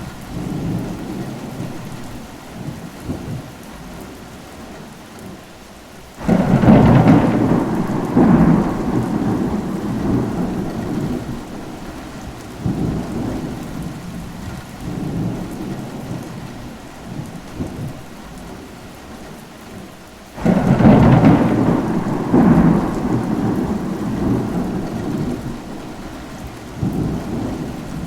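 Steady rain with rolling thunder: two claps, one about six seconds in and another about twenty seconds in. Each starts suddenly and rumbles away in repeated swells over several seconds.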